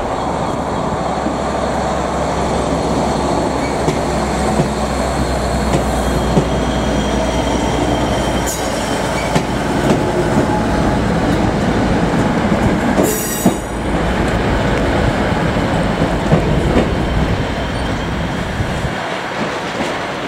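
A train running through the station: steady rail noise over a low rumble that drops away near the end, with wheels clicking over rail joints and a brief high wheel squeal about two-thirds of the way in.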